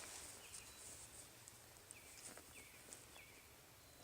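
Faint bird chirps, short calls repeating about once a second over quiet outdoor ambience.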